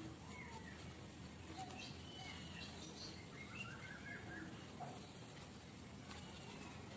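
Faint chirping of small birds: short, scattered calls rising and falling in pitch, over a low steady hum.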